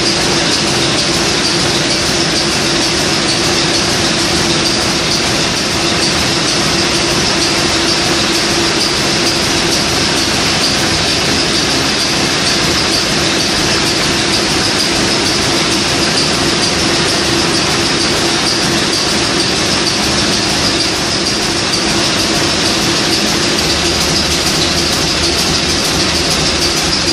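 Niigata 750 kW marine diesel main engine running steadily: a loud, even machinery din with a constant hum under a strong hiss.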